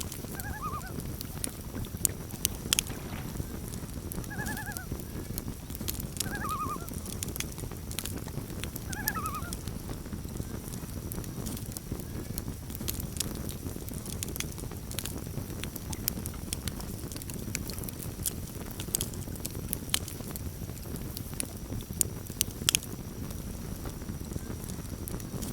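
Campfire burning with a steady low rumble and frequent sharp crackles and pops. In the first ten seconds, four short quavering calls of common loons (tremolo calls) come in, spaced a few seconds apart.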